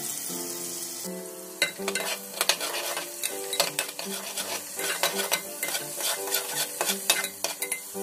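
Masala paste sizzling in hot oil and cumin seeds in a pressure cooker, with a metal ladle scraping and clinking against the pot's base as it is stirred. The stirring clatter starts about a second and a half in and goes on in quick, uneven strokes.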